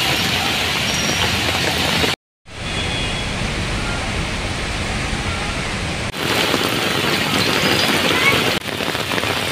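Heavy rain pouring onto a wet city street, a steady hiss. It cuts out briefly about two seconds in and changes in tone twice later on.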